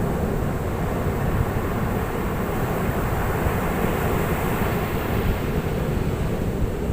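Ocean surf: a steady low rush of waves breaking on the shore, swelling a little midway.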